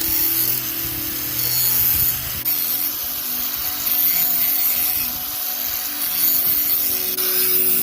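Slow, repeated rasping strokes of a hand tool such as a file or saw working the blade, a stroke every couple of seconds, over faint steady tones.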